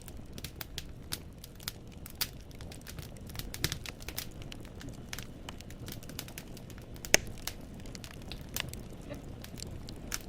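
Wood fire burning in a fireplace, the firewood crackling with irregular sharp pops over a steady low rumble of the flames. One louder pop about seven seconds in.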